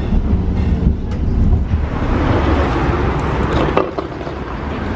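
Inside a moving city tram or trolleybus: a steady low running rumble, with a rise in hissing noise through the middle.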